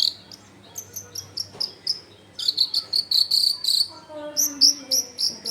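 Long-tailed shrike (cendet) singing in a loud, busy bout. Scattered short high notes give way to a fast trill-like run in the middle, then a few downward-slurred whistles near the end.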